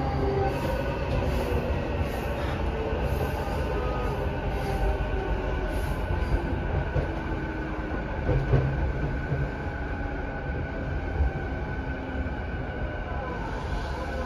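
Interior running noise of a JR East E233-7000 series commuter electric train with Mitsubishi IGBT-VVVF drive, travelling between stations. A steady low rumble of wheels on rail, with faint high whines and a couple of light knocks about two-thirds of the way through.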